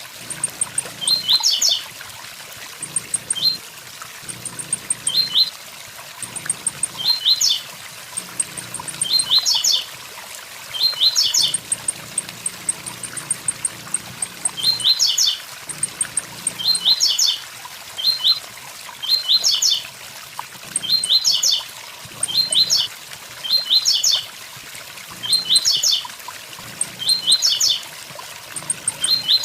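Blue-black grassquit (tiziu) singing its short, sharp 'tui tui zel zel' phrase over and over, about every one and a half to two seconds with a few longer pauses, over the steady rush of a waterfall.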